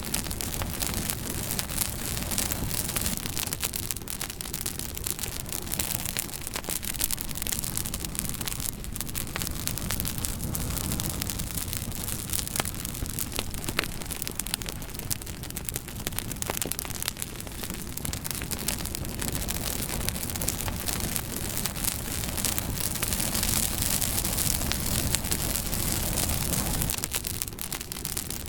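Campfire burning with dense, irregular crackling and popping over a steady low rushing noise.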